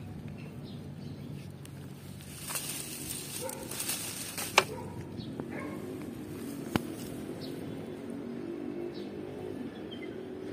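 Outdoor ambience: scattered faint bird chirps over a low steady hum, with a stretch of rustling and two sharp clicks about halfway through.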